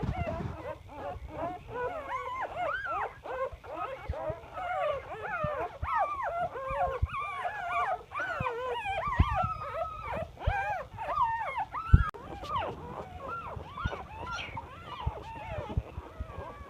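A litter of Labrador retriever puppies whining and squeaking, many short rising-and-falling cries overlapping each other throughout. A sharp knock sounds about twelve seconds in.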